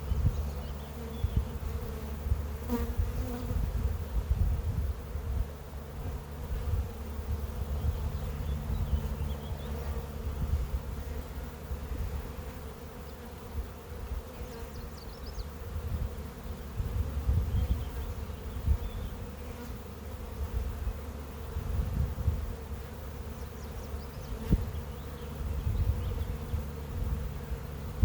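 Honeybees buzzing around an opened hive in a steady, dense hum, with irregular low rumbles underneath.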